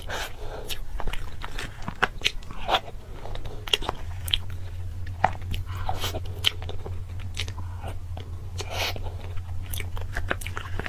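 Close-up crunchy biting and chewing of food, an irregular run of sharp crunches. A steady low hum comes in about four seconds in.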